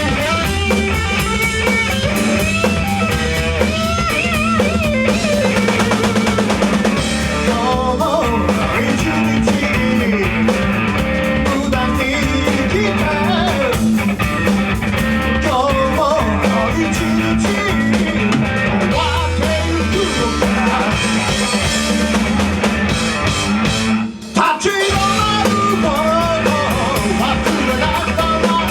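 Rock band playing live, with guitar and a drum kit. The band stops for a split second about 24 seconds in, then comes back in.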